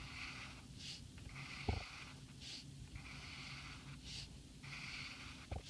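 Felt-tip marker dragged on its side across paper in a series of repeated hissing strokes, about one a second, with a soft knock about one and a half seconds in.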